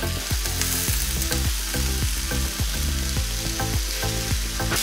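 Mushrooms and capsicum sizzling steadily as they fry in ghee in a pan.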